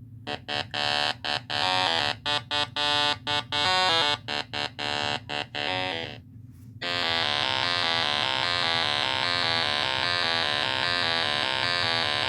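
Harsh electronic buzzer tone, sounding in short irregular bursts for about six seconds and then, after a brief pause, held steadily for about six more.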